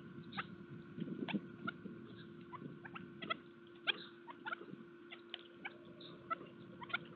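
Birds at a garden feeder: an irregular run of short, sharp chirps and ticks, several a second, over a steady low hum.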